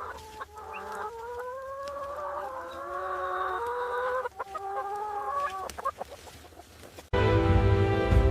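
A rooster crowing, one long drawn-out call that rises slowly in pitch and breaks once before trailing off. Background music comes in abruptly near the end.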